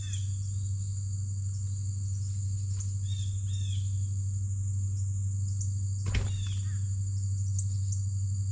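A steady insect trill from crickets over a constant low hum, with short bird chirps now and then. A sharp knock comes about six seconds in.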